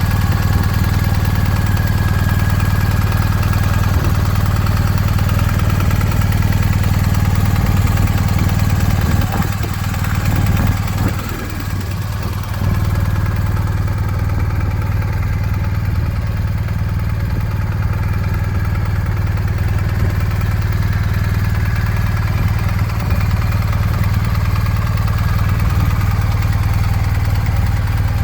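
Motorcycle engine idling steadily, its level dipping briefly about ten seconds in before settling back to a steady idle.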